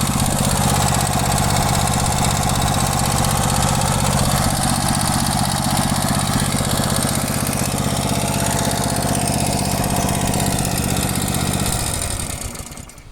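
Briggs & Stratton engine on a push lawn mower running steadily and smoothly, then shut off about twelve seconds in and winding down to a stop.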